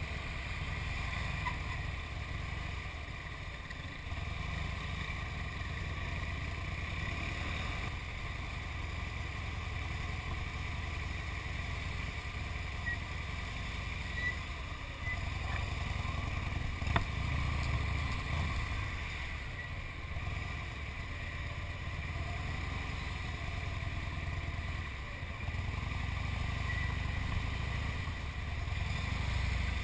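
Harley-Davidson motorcycle's V-twin engine running at low speed in slow traffic: a low rumble that rises and falls.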